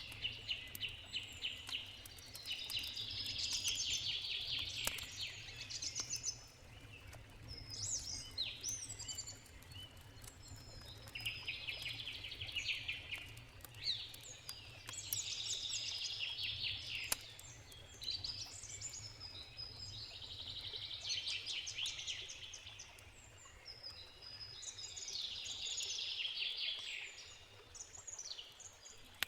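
A songbird singing short phrases of rapid repeated notes about every three to four seconds, over the scattered pops and crackles of a wood campfire and a steady low rush from a river.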